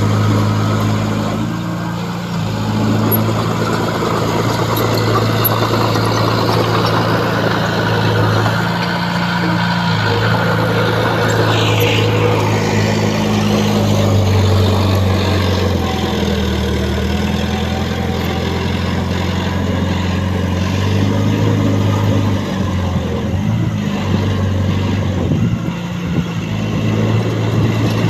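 Heavy earthmoving machinery's diesel engine running steadily, its pitch stepping up and down several times as the load changes. A brief falling whine comes about twelve seconds in.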